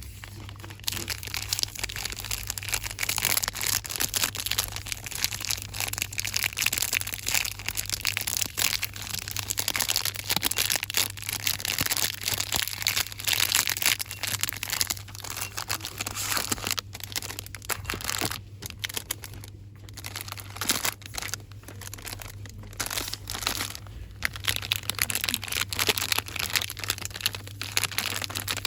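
Fast, dense crinkling and rustling of items and their packaging, handled roughly by hand, with short pauses in the second half.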